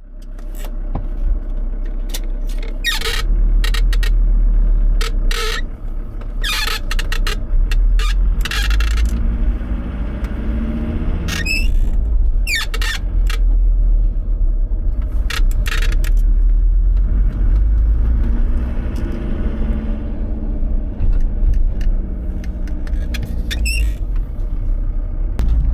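Clutch pedal of a VW Transporter T4 van squeaking repeatedly in short high-pitched chirps as it is pressed and released, over the steady low rumble of the van's engine and cabin.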